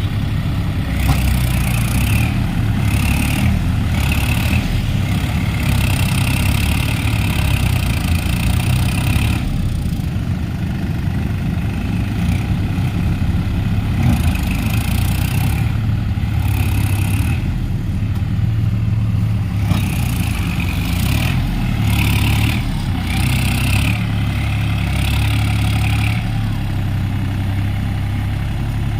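New Holland tractor's diesel engine running steadily.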